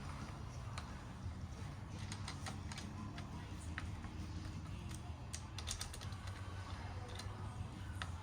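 Irregular light clicks and taps of hand tools on metal as the fork leg's clamp bolts are fastened in the triple clamp, over a low steady hum.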